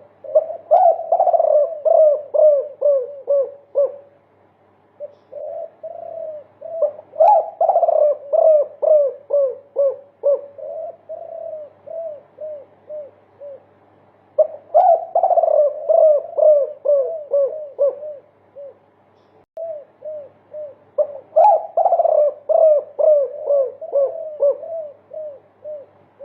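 Spotted dove (derkuku) giving its multi-note 'multikuk' coo: four bouts of quick, repeated low coos, each of about ten notes, with short pauses between bouts.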